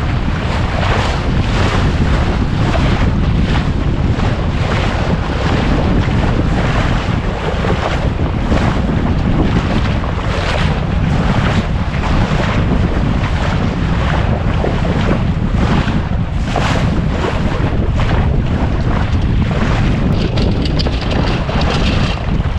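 Wind buffeting the microphone over water rushing and splashing along a small sailboat's hull while under way, in repeated surges.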